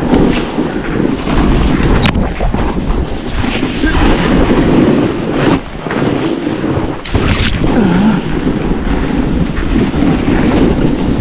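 Wind buffeting the microphone while a snowboard slides and scrapes through snow. There is a brief sharp click about two seconds in and a short hiss a little after seven seconds.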